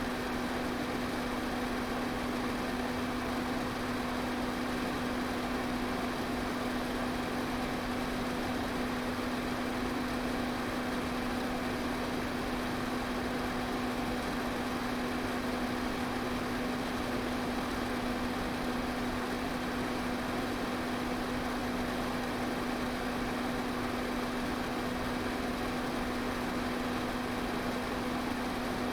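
Electric fan running steadily: an even rush of airflow with a constant low motor hum underneath.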